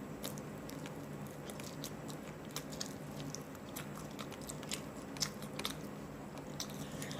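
Close-up mouth sounds of a person biting and chewing hot and spicy chicken, with irregular sharp clicks and smacks.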